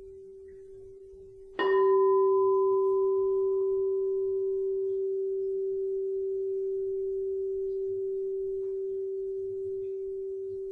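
Crystal singing bowl for the throat chakra, already ringing a single steady tone, struck again about one and a half seconds in. The tone swells with brief higher overtones, then fades slowly.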